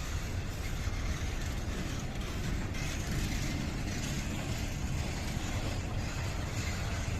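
A train running past with a steady low rumble and rail noise, slightly brighter from about three seconds in.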